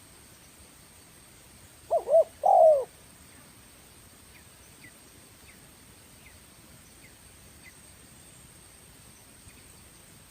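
Spotted dove (tekukur) giving one cooing phrase about two seconds in: two quick coos followed by a longer coo that falls at the end.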